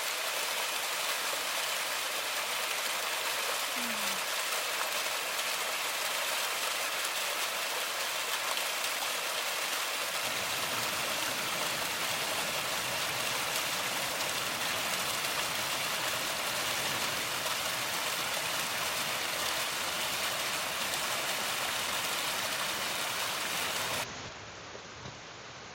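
Steady rush of heavy monsoon rain and a rushing valley stream, an even hiss. Shortly before the end it drops suddenly to a quieter, duller rush.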